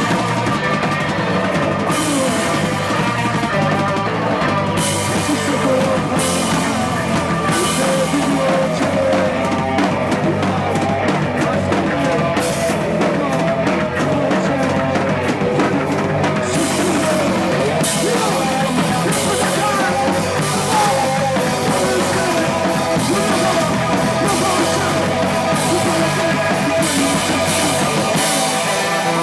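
A rock band playing live, loud and unbroken: a drum kit with cymbals over amplified instruments.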